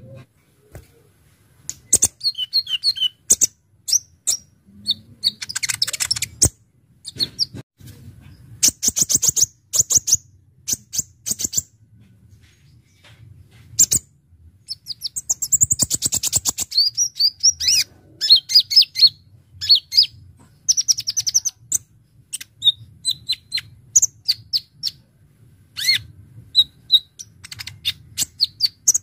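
Kolibri ninja (konin) sunbird singing: bursts of rapid, sharp, high-pitched chirps and fast trills, broken by short pauses, over a faint low hum.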